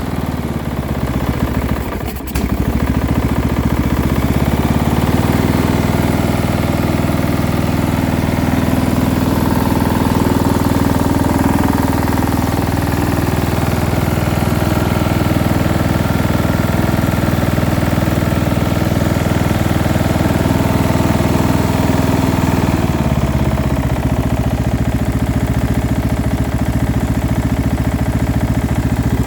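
Small mower engine with a muffler fitted, running steadily. It picks up speed a few seconds in and drops back to a slower run about three quarters of the way through. Under it runs a low-end rattle that the owner hears as a noise but not a true thump-thump knock.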